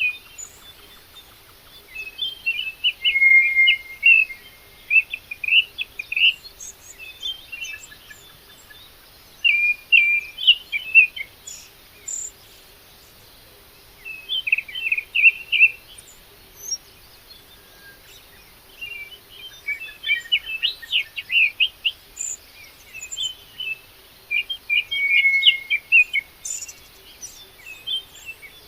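A songbird singing in short phrases of quick, chirping notes, repeated every couple of seconds with brief pauses between them.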